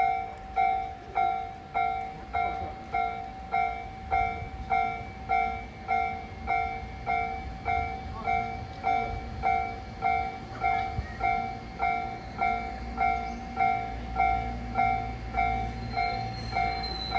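Japanese railway level-crossing warning bell ringing steadily at about two dings a second, while a train's low rumble rises near the end.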